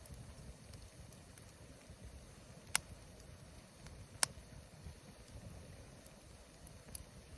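Wood campfire burning over a low rumble, with two sharp pops of crackling wood, about three and four seconds in, and a fainter one near the end.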